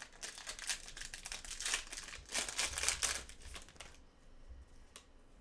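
Crinkling plastic card packaging and cards being handled during a trading-card break, dense and rapid for about four seconds, then easing off, with a single click near the end.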